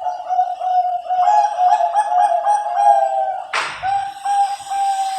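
Perkutut Bangkok (zebra dove) cooing: a fast run of short pitched coo notes, about four a second. A sharp knock comes about three and a half seconds in, and a few more notes follow.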